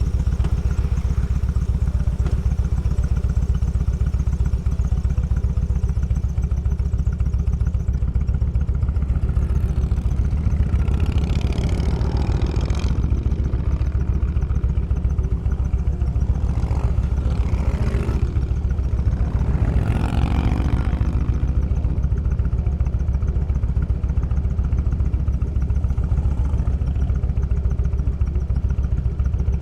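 Motorcycle engine running steadily while riding, recorded from the bike, over a rough construction-zone road. Three louder swells come and go between about ten and twenty-one seconds in as other vehicles pass.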